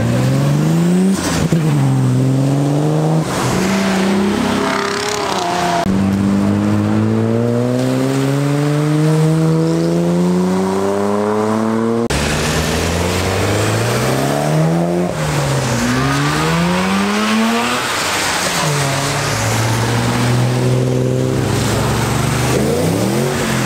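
Car engines revving and accelerating hard away on a wet road, the engine pitch climbing and dropping again and again, once in a long steady climb of several seconds. The sound breaks off abruptly and changes about six and twelve seconds in.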